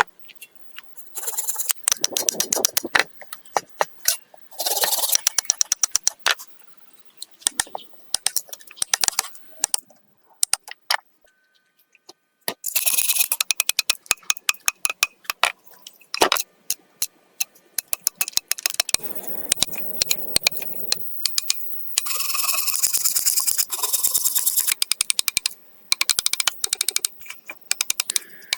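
Irregular clicking, rattling and scraping, as of objects being handled and moved about, with a short quiet spell near the middle.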